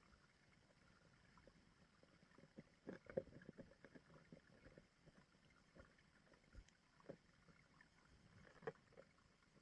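Faint stream-water sounds with scattered soft clicks and knocks, the strongest a cluster about three seconds in and a single knock near the end.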